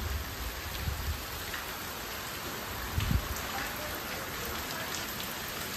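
Steady heavy rain falling on a waterlogged, flooded field, a continuous even hiss of drops on standing water, with one brief low bump about three seconds in.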